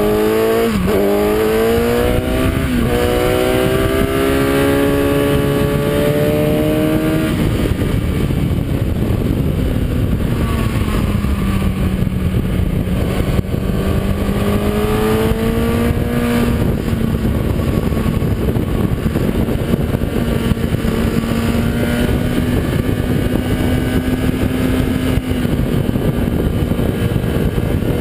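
Kawasaki ZX-10R inline-four sportbike engine heard onboard at full throttle: the note climbs in steps with two quick upshifts in the first three seconds and keeps rising until about seven seconds in. It then drops and holds a lower, slowly rising note, with heavy wind rush throughout.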